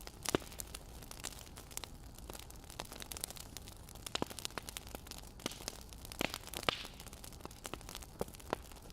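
Wood fire crackling: irregular snaps and pops over a low steady hiss, with a sharper pop near the start and a cluster of louder pops around six to seven seconds in.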